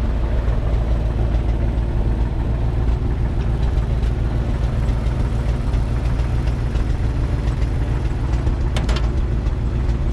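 Heavy farm-machine engine idling steadily, with a couple of short clicks near the end.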